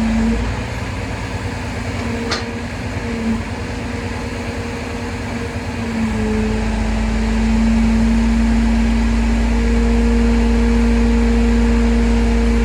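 Heavy machine running with a steady humming tone. A deep rumble comes in about six seconds in and it gets louder. There is a short click about two seconds in.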